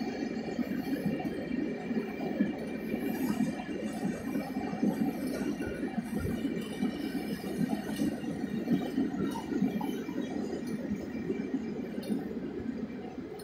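Norfolk Southern freight train of loaded rock cars rolling past, a steady, continuous clatter and rattle of cars on the rails.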